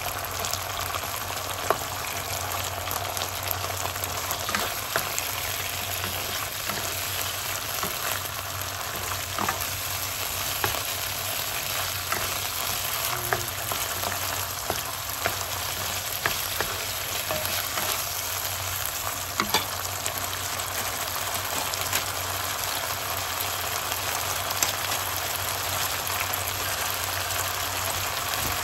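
Sardines and sliced onions sizzling steadily in a pan of oil and sauce while a wooden spatula stirs them, with scattered sharp ticks now and then.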